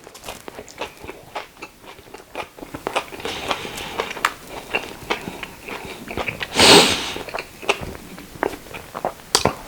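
Close-up eating of a soggy Subway sandwich with pickles, onions and jalapeños: wet biting and chewing with many small crunching, smacking clicks. A brief, louder rush of noise comes about two-thirds of the way in.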